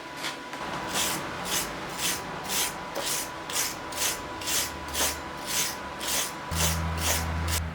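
Hand tool scraping back and forth over freshly MIG-welded metal, about two strokes a second. A low hum comes on near the end.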